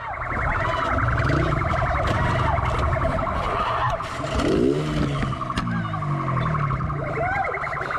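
Police car siren sounding in a fast electronic warble over a vehicle's engine and road noise; about five seconds in, a lower engine note falls in pitch.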